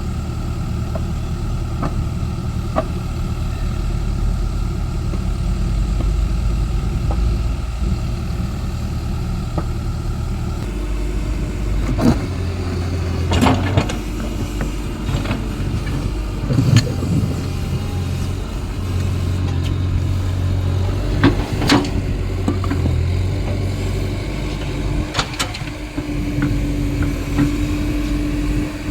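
Excavator's diesel engine running steadily, its tone changing about ten seconds in as the load shifts. Several sharp clanks are heard over it.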